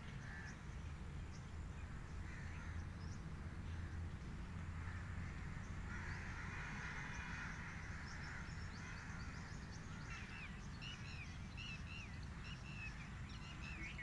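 Birds calling over a low, steady background rumble; from about ten seconds in, a bird gives a run of short chirps, about two a second.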